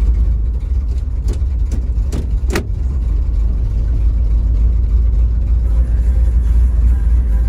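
Ford F600 truck's carbureted engine running steadily just after a cold start on the choke, a heavy low rumble. A few short sharp clicks come in the first few seconds, the last and loudest about two and a half seconds in.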